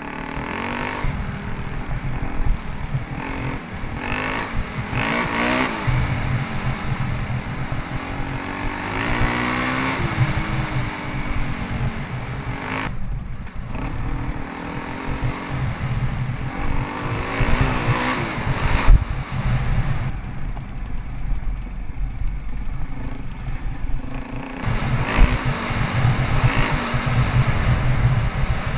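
Suzuki DR-Z400E single-cylinder four-stroke dirt-bike engine being ridden, its revs rising and falling in repeated swells as the throttle opens and closes. The note drops away briefly about halfway through.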